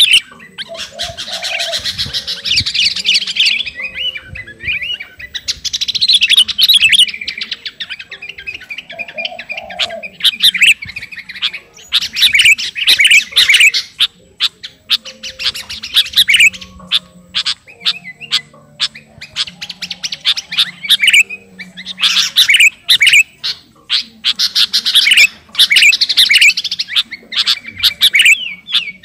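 Sooty-headed bulbul (kutilang) singing vigorously, in repeated bursts of fast, chattering phrases with short pauses between them.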